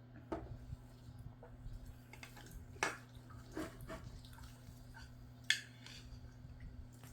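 Eating from a bowl of rice and scrambled egg: a handful of short clicks and taps of a spoon against the bowl, the loudest about three and five and a half seconds in, over a low steady hum.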